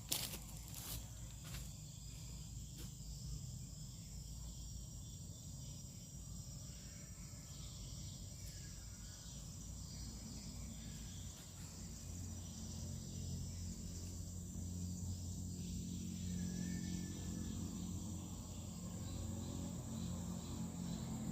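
Insects, crickets or similar, keeping up a steady high-pitched drone. A low hum comes in and grows louder from about halfway through.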